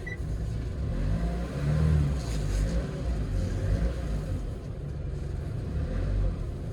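Hyundai Porter 2 truck engine running in the cab as the truck drives, with a low rumble and a brief rev about two seconds in.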